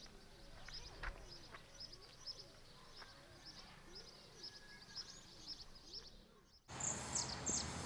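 Small birds chirping faintly in quick, repeated high notes, with softer, lower calls rising and falling underneath. About seven seconds in, the sound cuts abruptly to a louder outdoor background that also has birds chirping.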